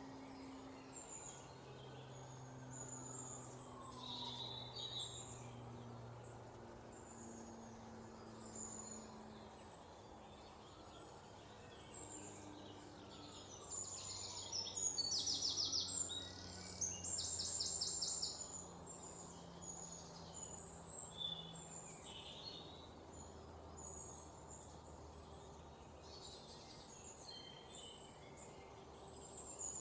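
Several songbirds chirping and calling, with two louder rapid trills about halfway through, each lasting about a second and a half.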